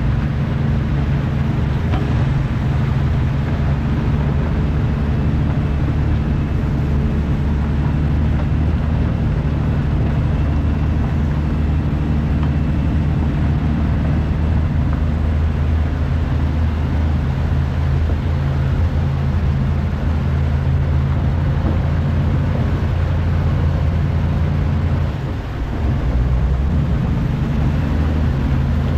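Heavy diesel truck engine running steadily while the loaded truck drives, with a short dip in level about 25 seconds in.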